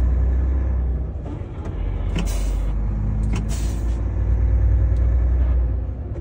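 Heavy truck's diesel engine running with a steady low drone. Two short hisses of compressed air come from the air brakes, about two seconds in and again about a second later.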